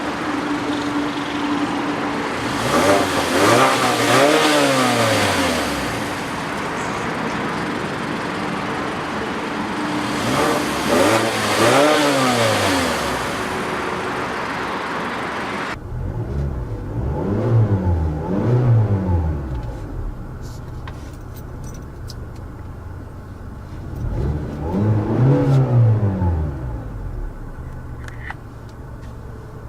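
Mazda 6 engine being revved in neutral: five or so free-revving blips that rise and fall back to idle. The sound changes abruptly about halfway through, becoming less hissy, with a quick double blip followed by a single one.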